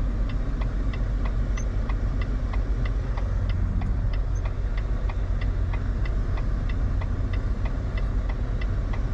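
Semi truck's diesel engine running at low speed, heard from inside the cab, with a light ticking repeating evenly about three times a second.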